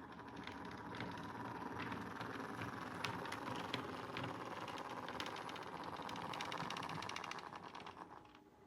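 Model train running past on the layout: a steady run with rapid fine clicking from the wheels on the track. It gets louder as it approaches and fades near the end.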